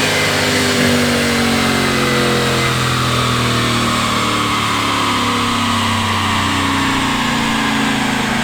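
Turbocharged 5.0 Coyote V8 of a Ford F150 winding down after a full-throttle dyno pull, its engine note falling slowly and evenly.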